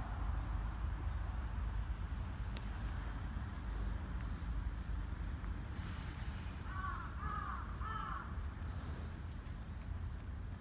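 Three short, harsh bird calls in quick succession about seven seconds in, over a steady low background rumble.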